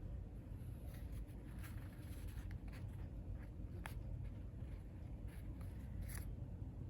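Quiet room tone with a low hum and a few faint, scattered clicks and rustles.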